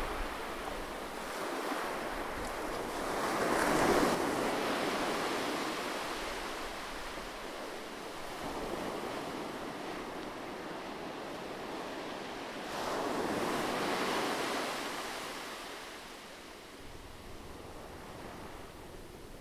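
Ocean surf: waves breaking and washing up the shore, swelling twice (about four seconds in and again about thirteen seconds in), then easing off near the end.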